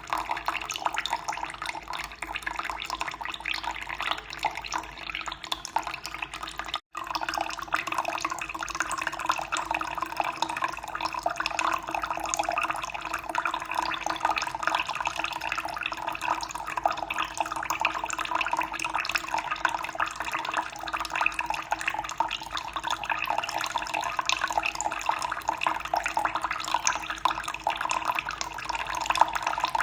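Running water flowing and splashing steadily, with a split-second gap about seven seconds in.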